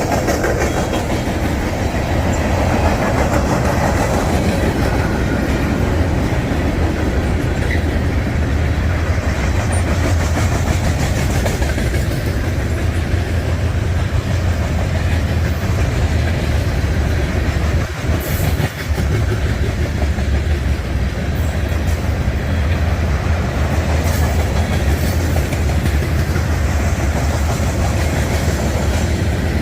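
Norfolk Southern mixed freight train's cars rolling past close by, a steady heavy rumble with the clickety-clack of wheels over the rail joints. The loudness dips briefly about 18 seconds in.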